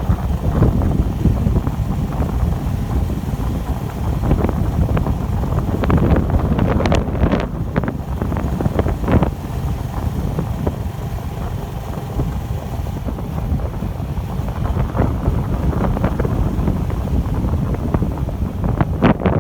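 Wind buffeting the microphone of a moving bicycle as a steady low rumble, with a few brief clattering knocks, a cluster a third of the way in and another near the end.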